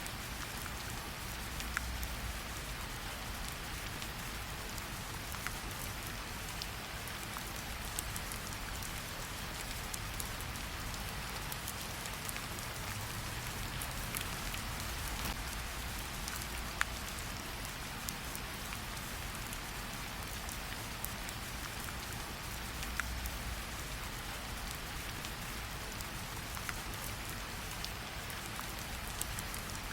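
Steady rain falling, an even hiss, with a few sharp crackles scattered through it from a campfire mixed in.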